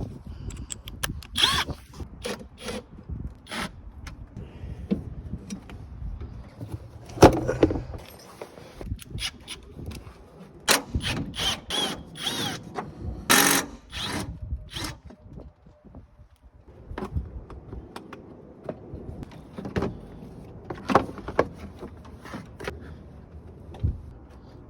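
Tools and parts knocking, clicking and scraping on and off during work under the hood of a truck being stripped for a radiator swap, with a few brief high squeaks.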